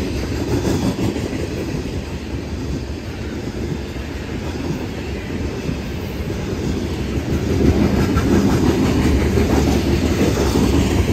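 Freight train of coal cars rolling past: steel wheels rumbling and clacking over the rail joints in a steady noisy run, growing louder about two thirds of the way through.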